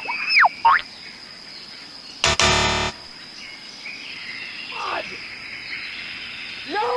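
Animation sound effects: a whistle sliding up and down at the start, a short buzzy rasp a little over two seconds in, and a faint falling glide later, over a steady outdoor-style ambience.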